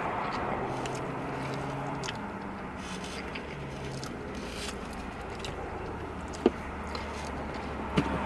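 Close eating and handling noises: chewing and biting into chicken, with scraping and rustling of food and packaging. A low hum runs underneath, and two sharp clicks come near the end.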